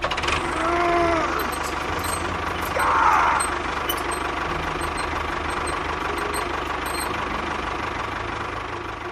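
Steady engine-like machine rumble, with a short squeal that rises and falls about a second in and a brief louder rasp around three seconds in.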